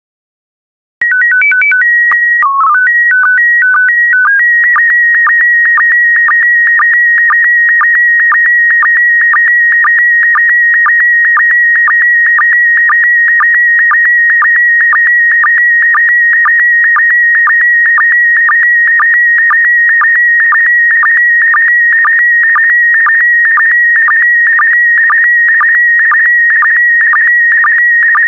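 Slow-scan television (SSTV) transmission in PD120 mode. After about a second of silence comes the mode-identifying header, a short run of stepped beeps with one lower tone. Then, from about four seconds in, the image scan: a continuous high warbling tone broken by short, lower sync pulses about twice a second.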